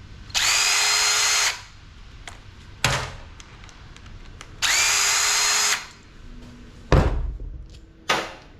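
A handheld power tool run in two short bursts of about a second each, its motor spinning up at the start of each, with sharp knocks between and after.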